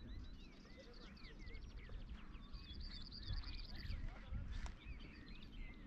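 Small birds singing and chirping in short curved notes, with a fast trill about two and a half seconds in, over a low rumble.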